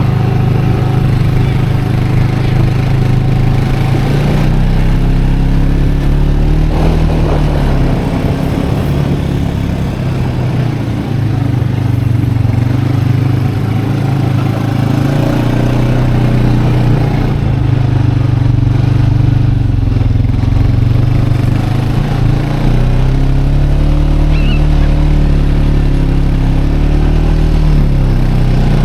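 Four-wheeler (quad ATV) engine running steadily under way, its pitch stepping up and down a few times as the throttle changes.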